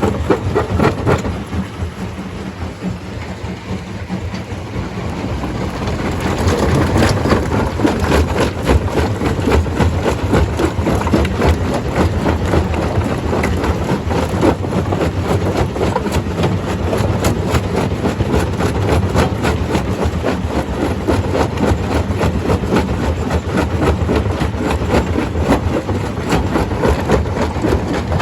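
Stone crusher at work: the machine running heavily with a dense, continuous clatter of rock being crushed. The din grows louder about six seconds in.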